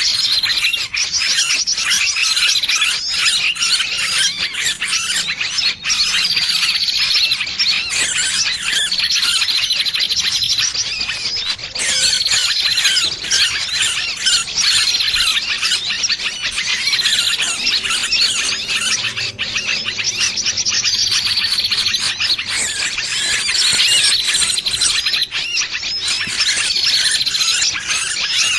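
Small bird's shrill distress cries, the squealing of a bird caught in a trap, used as a bird-trapping lure. Dense high-pitched chattering with one call recurring every two seconds or so.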